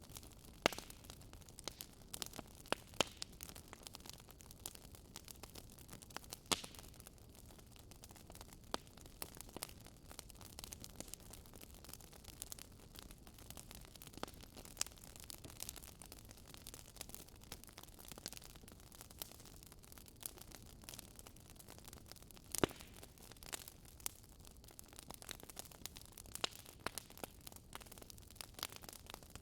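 Wood fire crackling: irregular sharp pops and snaps over a steady low hiss, the loudest pops about half a second in, near 3 and 6.5 seconds, and near 23 seconds.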